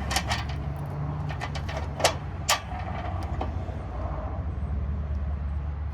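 Sharp metallic clicks and clinks from handling parts while taking apart a metal parking lot light fixture. Most of the clicks come in the first half, over a steady low hum.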